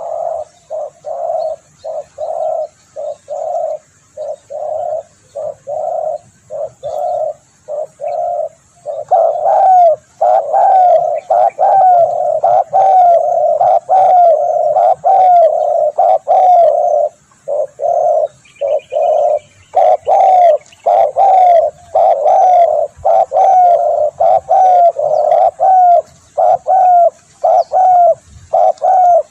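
Spotted dove cooing: a long run of short, evenly spaced coo notes, about two a second, each with a slight falling tail. It gets markedly louder about nine seconds in.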